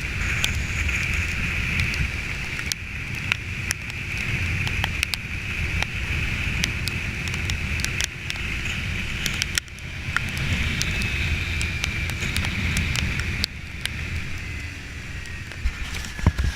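Kawasaki Ninja 300 motorcycle on the move: a steady low engine and road rumble under a wash of wind noise on the camera's microphone, with scattered sharp ticks. The level drops abruptly twice.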